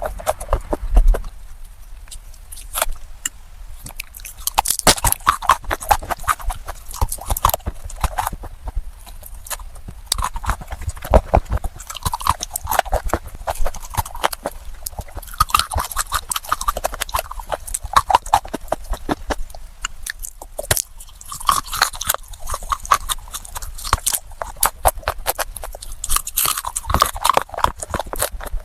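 Close-miked biting and chewing of baked red clay: a dense run of sharp crunches and crackles in uneven clusters.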